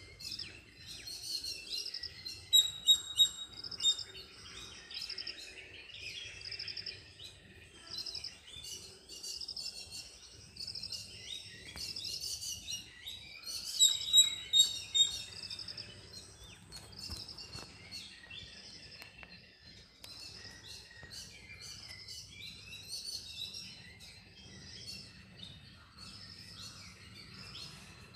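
Small birds chirping and twittering continuously, with louder bursts of sharp repeated calls about two and a half seconds in and again about fourteen seconds in.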